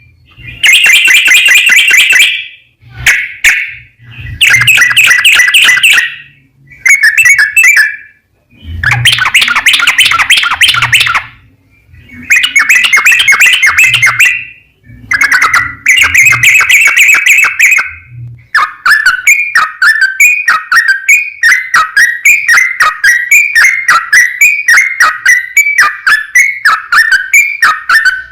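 Yellow-vented bulbul (trucukan) singing loudly in bursts of bubbling, chattering song, each a couple of seconds long with short pauses between. In the last third it changes to a long steady run of short falling notes, about two a second.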